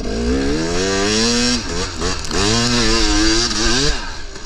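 KTM 300 two-stroke dirt bike engine revving hard in two long pulls of the throttle, the pitch climbing, falling away about a second and a half in, then climbing again and dropping near the end.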